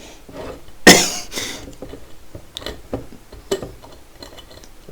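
A person coughs once, sharply, about a second in, then a few faint clicks follow.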